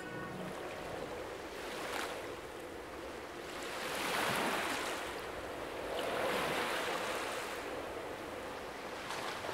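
Water washing, swelling up twice and easing off, with wind on the microphone and a faint steady hum underneath.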